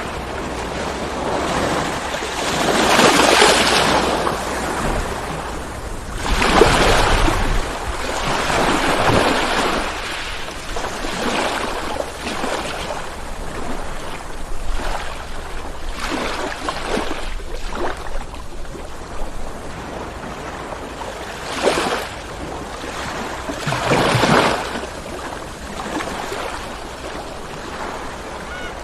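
Ocean surf: waves break and wash in as a steady hiss. Louder surges come about three seconds in, again around seven to nine seconds, and twice more a little after twenty seconds.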